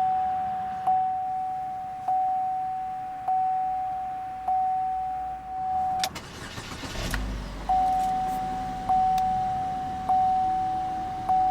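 A car's interior warning chime dinging steadily, about once every 1.2 seconds. About six seconds in it stops while the 2012 Buick Verano's 2.4-litre four-cylinder engine cranks and catches, then the chime resumes over the engine idling.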